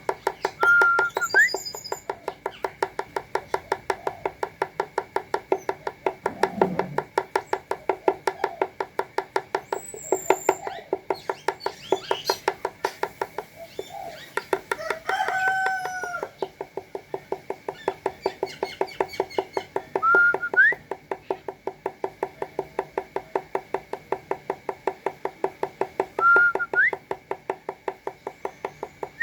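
A steady, rapid train of short pulses, about three a second, with a short rising whistle heard a few times: about a second in, twice around 20 seconds, and near the end.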